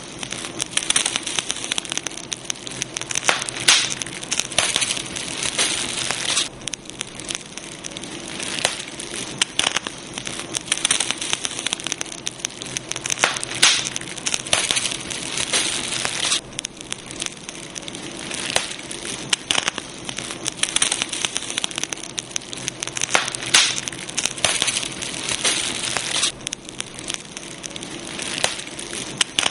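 Campfire burning: wood crackling with many sharp pops and snaps over a steady hiss, easing briefly about every ten seconds.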